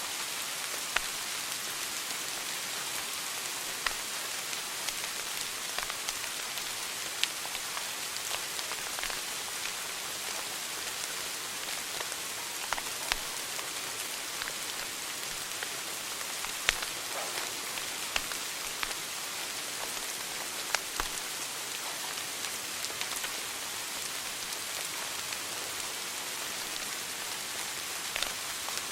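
Wood fire crackling in a fireplace: a steady hiss with irregular sharp pops and snaps every second or few.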